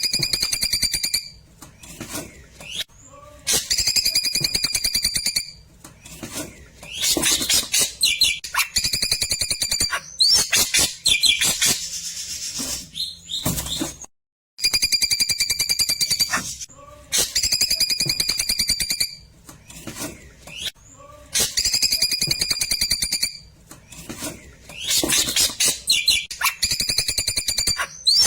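Klewer bird song in a looped recording: rapid trilled phrases held at a steady high pitch, alternating with buzzy, chattering bursts and short pauses. After a brief dropout about halfway through, the same sequence starts over.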